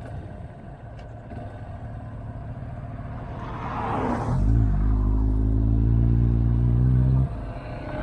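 Motorcycle engine running on the road with wind rush. About four seconds in there is a swoosh falling in pitch. The engine then holds a loud, steady note for about three seconds, which drops off suddenly just after seven seconds, as when the throttle closes or the rider changes gear.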